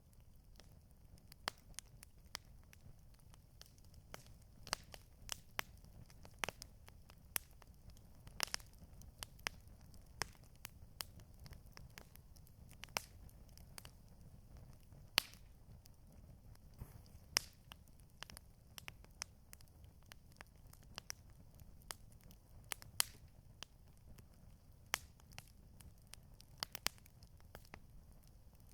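Campfire crackling: irregular sharp pops and snaps of burning wood over a low, steady rumble from the fire.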